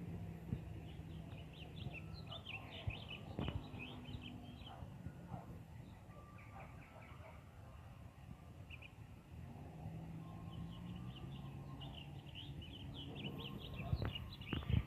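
Songbirds chirping in two spells of quick runs of short notes, over a faint low steady hum, with a couple of sharp knocks.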